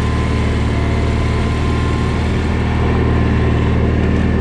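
John Deere 317 garden tractor's engine running steadily while the tractor drives along, a constant low engine drone.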